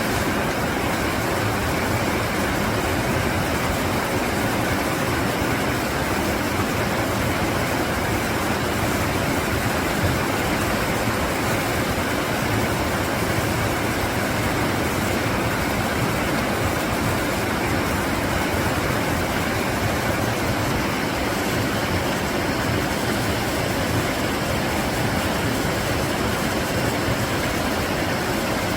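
Mountain valley stream flowing with a steady, unbroken rush of water.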